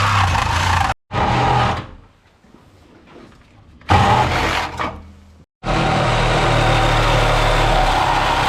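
Car engine running in short clips that are cut together, breaking off abruptly about a second in and again a little past halfway, with a quieter stretch in between.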